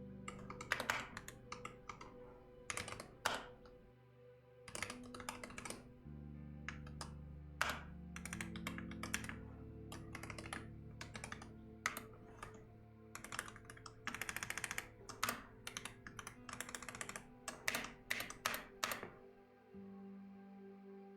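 Typing on a computer keyboard in irregular bursts of keystrokes, with one fast dense run partway through, over soft ambient music. The typing stops about two seconds before the end, leaving only the music.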